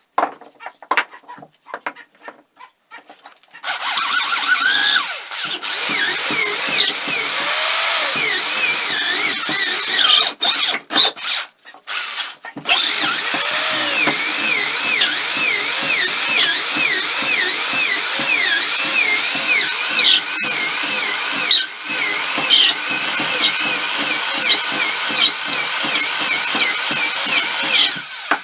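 A handheld power tool, most like a drill, running under load against a workpiece with a repeating wavering whine. It starts a few seconds in, stops briefly around ten seconds in, then runs again until just before the end.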